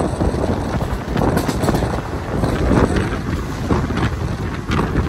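Passenger train in old ICF coaches running at speed: a steady rumble and rattle of wheels on rails, with wind buffeting the microphone.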